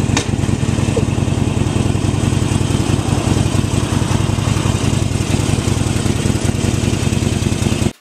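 Twin-cylinder motorcycle engine running steadily at an unchanging speed, the even beat of its firing pulses dominant; the sound cuts off suddenly at the very end.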